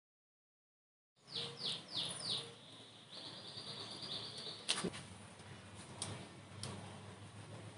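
After about a second of silence, a small bird chirps four times in quick succession, then gives a short trill, over faint background noise. A few light clicks follow.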